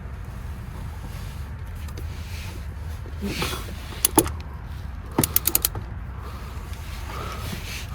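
Metal tool clicks from a wrench working the RAV4's oil filter housing cap loose: two sharp clicks about four seconds in, then a quick run of about five clicks a second later, over a steady low rumble.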